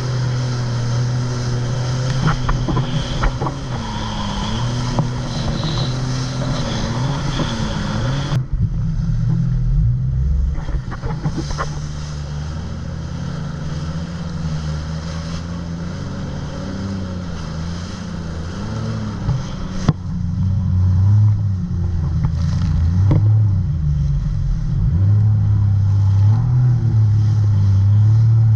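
Jet ski engine running under way, its pitch rising and falling with the throttle.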